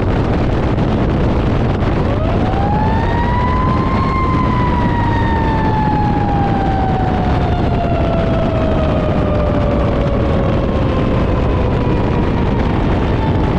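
A fire engine's mechanical siren spins up over about two seconds, then winds down slowly over about nine seconds, with a loud, steady rumble of the truck and road underneath. The siren starts to wind up again near the end.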